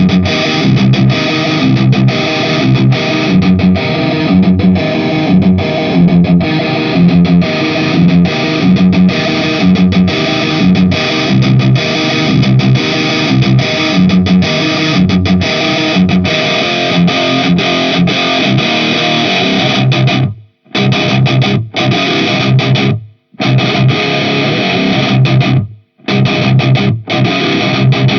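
Distorted electric guitar playing a looped rhythmic riff through an Orange-style amp simulation and speaker-cabinet impulse responses. From about twenty seconds in, the riff breaks off into several short dead stops between chords.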